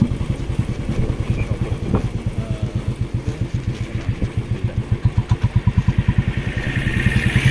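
Motorcycle engine running steadily under way, its exhaust beat a fast, even low pulsing, with some hissing noise rising near the end.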